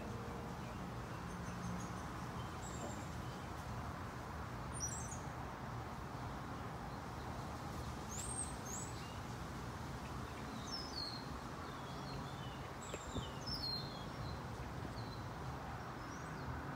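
Scattered short, high bird chirps every few seconds over a steady low outdoor rumble.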